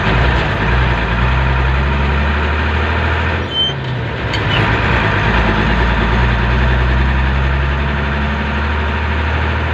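Motorcycle engine running steadily with road and wind noise. The engine note drops out briefly about three and a half seconds in, then picks up again.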